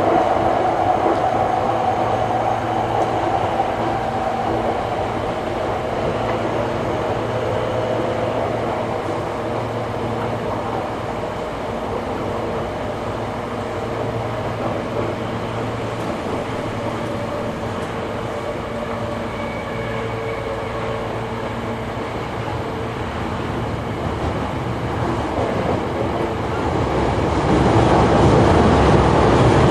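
Hankyu 8300 series commuter train running, heard from inside the car: steady wheel and rail noise with a motor and gear hum. The noise grows louder near the end.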